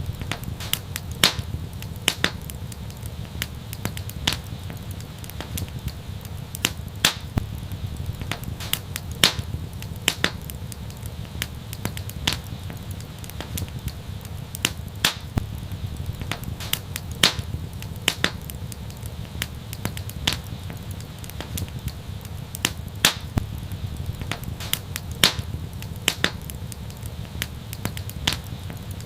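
Wood fire crackling in an outdoor fireplace: irregular sharp pops and snaps, a few louder than the rest, over a low steady rumble.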